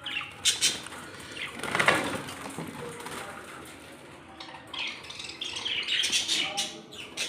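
Pet birds moving about and calling: irregular wing flaps and short high chirps, with a louder flurry about two seconds in.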